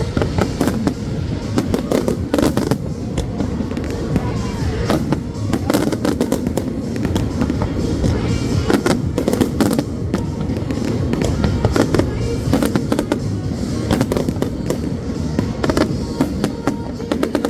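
Fireworks bursting over and over, a fast run of sharp bangs and crackles throughout, with music playing underneath.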